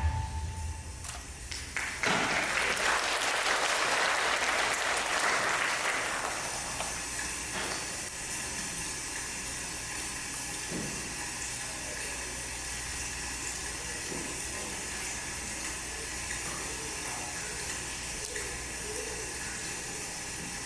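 Audience applauding, loudest for a few seconds from about two seconds in, then dying down to a low steady background.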